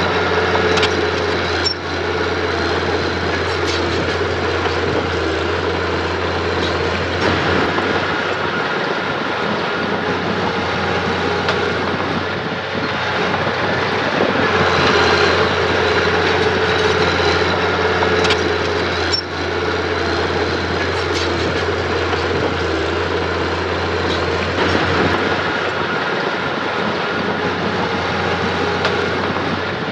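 Heavy diesel earthmoving machinery running steadily under work, with a few short sharp clanks.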